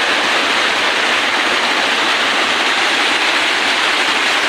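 Waterfall water rushing, a loud, steady hiss.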